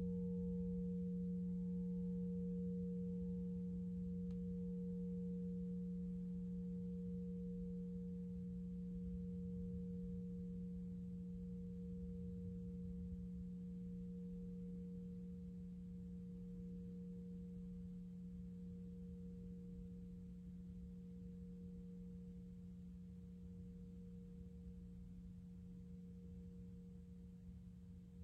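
Alchemical crystal singing bowl ringing on one low steady tone with a fainter, gently pulsing higher overtone, slowly fading away.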